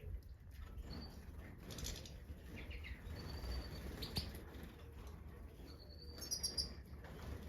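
European goldfinches of the large Major form giving short, high chirping calls, a few scattered notes and then a quick twittering burst near the end.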